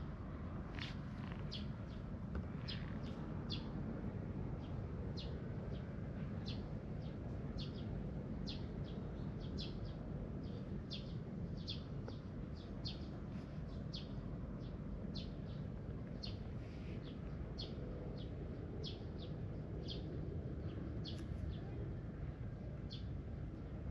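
Small birds chirping: short, high chirps come one or two a second over a steady low background noise.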